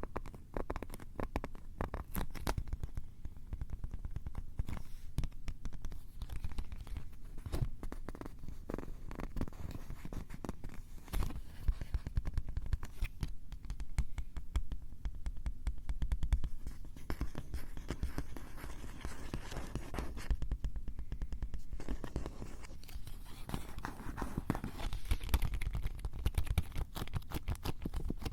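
A Tascam handheld recorder's built-in microphones are being scratched and handled up close. The sound is a dense, uneven crackle of scratches and taps over a low rumble.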